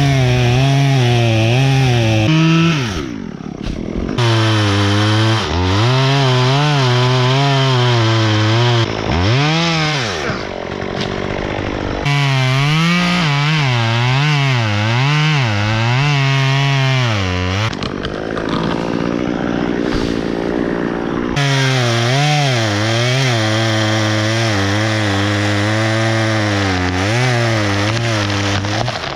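Chainsaw running hard and cutting wood, its engine note wavering up and down as it works under load. The steady note drops out briefly three times.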